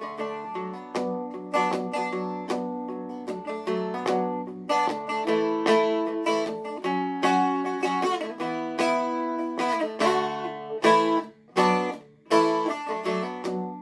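Seagull Merlin M4, a four-string stick dulcimer, flatpicked: a quick picked melody line over ringing drone strings, with one brief gap about three-quarters of the way through.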